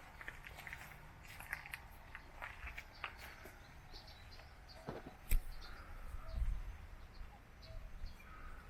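Outdoor walking ambience: footsteps with scattered small clicks, a sharp knock about five seconds in, and birds chirping here and there.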